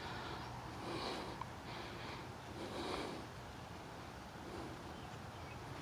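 A person breathing while walking: soft breaths about once a second, fading to a low steady hiss in the second half.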